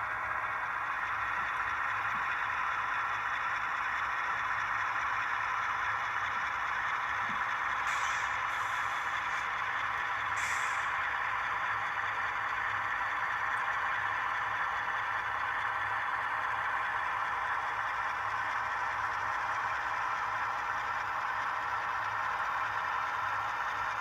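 Model AC44 diesel locomotive running on a model railroad layout: a steady running sound with an even whine, broken by two short hisses near the middle.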